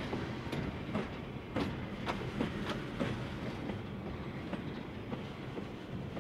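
Railroad cars, open gondolas and a passenger coach, rolling slowly past, their steel wheels clicking and clanking over the rail joints at uneven intervals above a steady low rumble.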